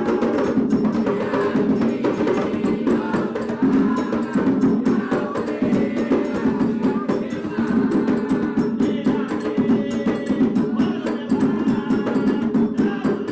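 Candomblé percussion music played for Oxum: atabaque hand drums, led by the rum drum, beating a dense, steady rhythm with a sharp clacking percussion part over it.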